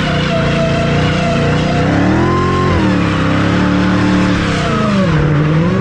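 Dodge Hellcat's supercharged 6.2-litre V8 revving hard while the car drifts with its rear tyres spinning in smoke. The revs climb to a peak about two and a half seconds in, ease off, dip near the end and pick up again, over a steady hiss.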